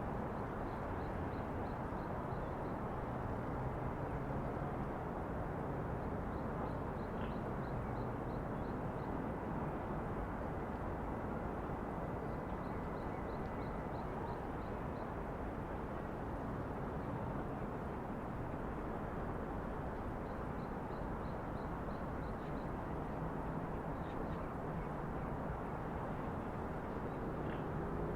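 Steady outdoor city background noise of distant traffic. Every few seconds a short run of about eight quick, high ticks repeats.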